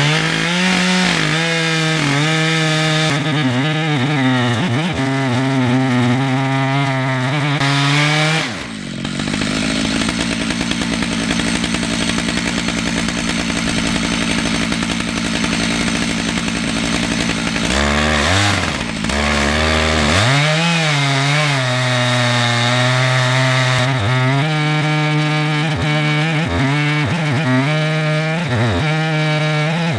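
Two-stroke chainsaw running at high speed as it mills through a red oak log, its pitch sagging and recovering again and again under the load of the cut. In the middle there is a steadier stretch, then the cutting pitch swings return.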